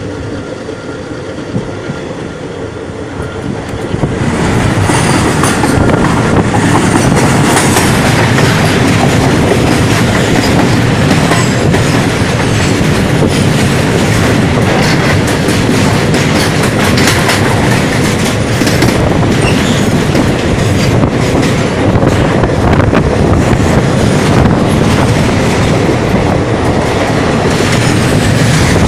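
A moving train's wheels rumbling and clicking over rail joints, heard from an open coach door. About four seconds in the sound jumps much louder as a freight train of tank wagons crosses at speed close alongside on the next track, a continuous loud rush and clickety-clack of wagon wheels.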